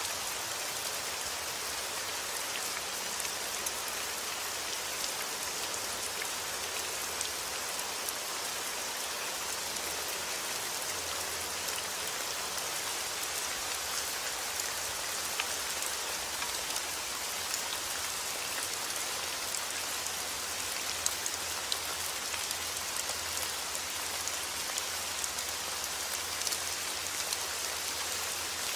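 Heavy rain falling steadily, an even hiss flecked with the sharp ticks of individual drops striking a surface.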